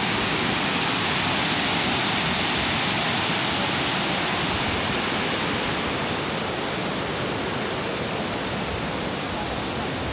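Steady rush of falling water from the Leuk waterfall, easing off slightly in the second half.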